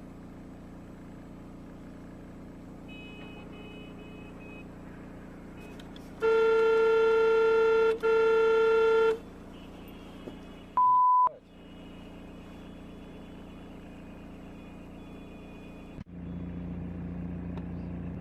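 Steady vehicle and road hum, with a car horn honking twice in long blasts about six seconds in, together lasting about three seconds. A few seconds later comes a short single-pitch beep, like a censor bleep, while the rest of the sound briefly cuts out.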